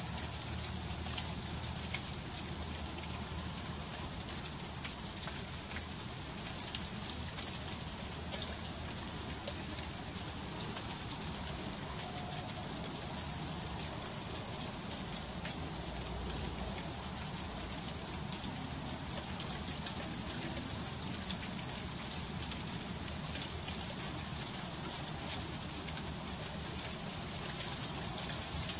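Freezing rain falling steadily, a dense patter of fine ticks as the drops strike icy surfaces.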